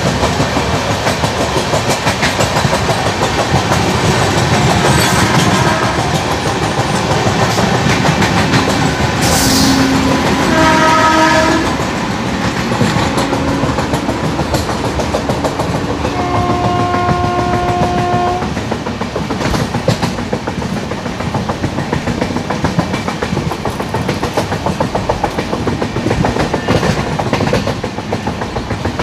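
Two Indian Railways express trains running side by side at speed, heard from an open coach doorway: a loud, steady rumble of wheels and coaches with a clickety-clack over the rail joints. An electric locomotive's horn sounds twice, briefly about ten seconds in and held for about two seconds around sixteen seconds in.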